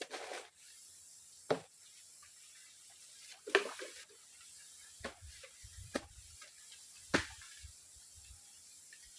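Half a dozen scattered sharp knocks and short rustles, like sticks or gear being handled at a forest camp, over a faint steady hiss.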